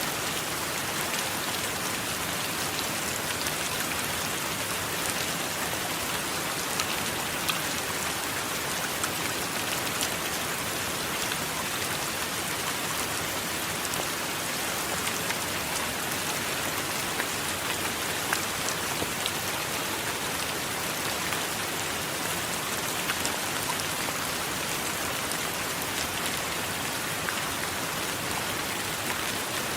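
Steady rain falling on a surface, with a constant hiss and scattered sharp drop ticks throughout.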